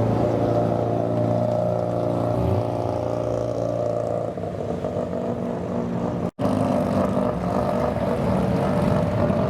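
Car engine running steadily near idle, with a deep even note. About two-thirds of the way in the sound cuts out for a split second and then a steady engine note carries on.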